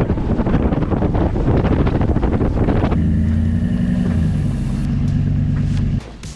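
Boat's outboard motor running with heavy wind buffeting on the microphone. About three seconds in this changes abruptly to a steadier engine hum, which drops slightly in pitch a little later and cuts off just before the end.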